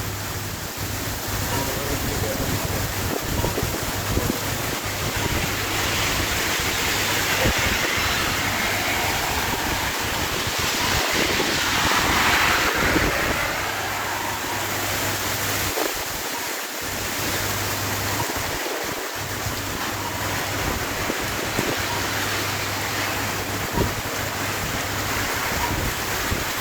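Storm rain driven sideways by strong wind, a steady rushing hiss that swells twice with gusts, with wind buffeting the microphone in low rumbles.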